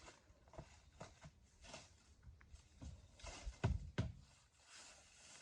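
Scattered light knocks and clicks, with two louder, deeper thumps about three and a half and four seconds in.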